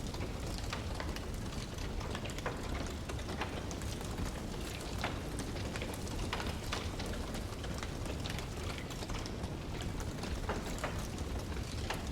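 Wood fire crackling, with frequent irregular sharp pops and snaps over a steady low rushing noise.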